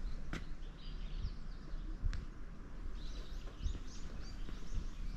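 Small birds chirping: runs of quick, high, repeated chirps, thickest in the second half, over a steady low outdoor rumble, with two sharp clicks.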